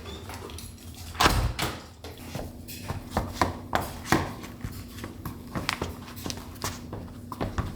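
Irregular knocks and clicks, a few each second, the loudest about a second in, over a steady low hum.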